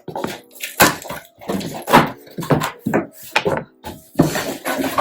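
Cardboard shipping box being handled and opened, a quick series of knocks, scrapes and tearing rustles.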